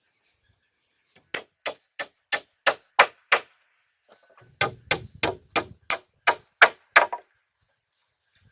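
A hand tool striking timber in two steady runs of about seven or eight sharp blows each, roughly three blows a second, with a pause of about a second between the runs.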